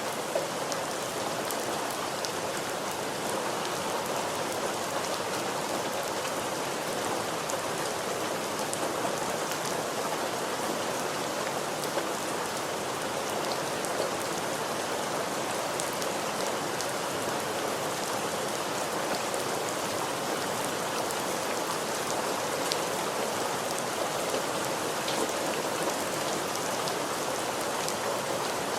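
Steady rain falling on a surface, with scattered individual drop ticks over an even hiss.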